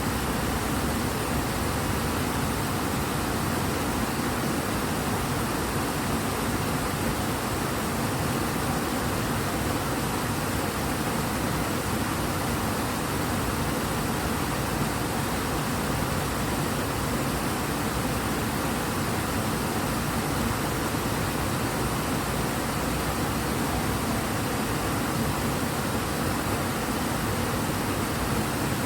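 Steady rush of a large river running high and fast, the Ebro in strong flow, an even roar of water with no breaks.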